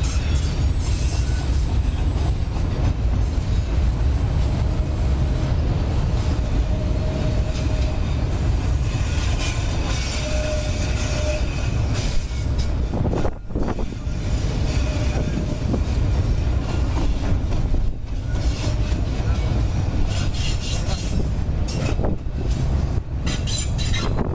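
Autorack freight cars rolling past on a curve: a steady, loud rumble of steel wheels on the rails, with brief faint wheel squeal now and then.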